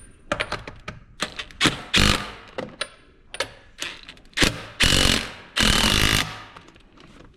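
Impact wrench on a car's lug nuts, firing in three short bursts of rapid hammering, among the clink and clank of the impact socket being fitted to the nuts.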